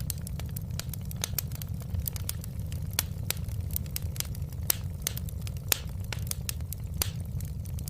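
Fire crackling in a fireplace: irregular sharp pops and snaps, a few louder than the rest, over a steady low rumble.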